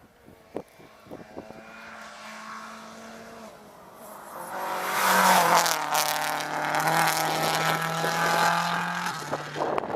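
Rally car at speed on a tarmac stage, its engine growing louder as it approaches and loudest from about five seconds in, the engine note dropping in steps several times.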